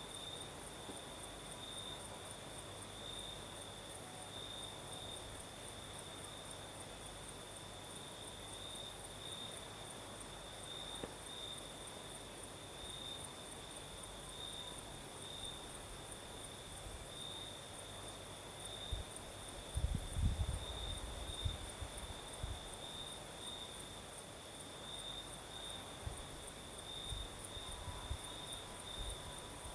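Crickets chirping steadily at night, a pulsing trill at one pitch with a second, higher-pitched insect trill above it. A few low gusts of breeze rumble on the microphone about two-thirds of the way through and again near the end.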